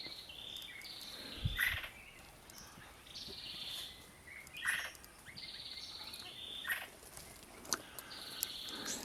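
Repeated short buzzy bird calls, each well under a second and stepping down in pitch, coming every second or two. A few sharp clicks sound about a second and a half in and near the end.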